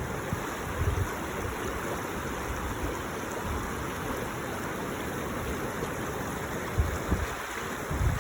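Steady rush of sea surf and wind, with a few brief low thuds about a second in and near the end.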